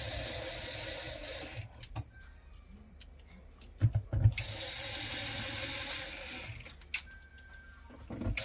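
Electric screwdriver running in two spells of about two seconds each, driving stainless-steel screws back into a dishwasher's housing, with a few sharp knocks between the spells.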